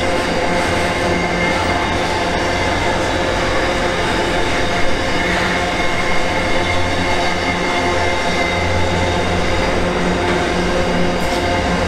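Intermodal freight train's container wagons rolling slowly past on a curve: a steady rumble of steel wheels on rail, with several steady tones over it and a brief knock about five seconds in.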